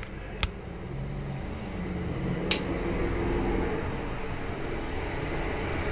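Steady low hum with faint held low tones, and two sharp clicks, one about half a second in and a louder one about two and a half seconds in.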